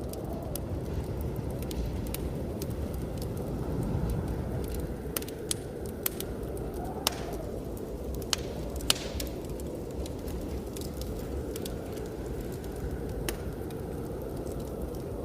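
Wood fire crackling with scattered sharp pops, the loudest about seven and nine seconds in, over a steady low rumble of blizzard wind.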